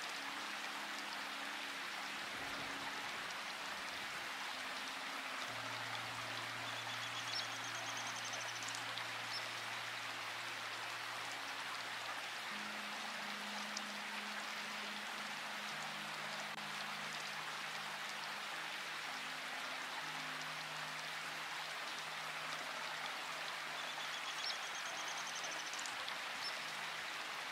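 Steady rain falling, with slow, soft music of long held low notes underneath that change every few seconds. A brief high chirp comes twice, about eight seconds in and again near the end.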